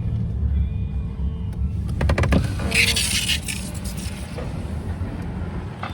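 Low steady engine rumble, with a quick run of clicks about two seconds in and a short, loud hiss just after.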